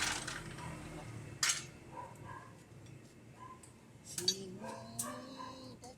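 Scattered metallic clinks and knocks of hand tools on metal, a few sharp strikes about a second and a half in and around four to five seconds in, with faint voices near the end.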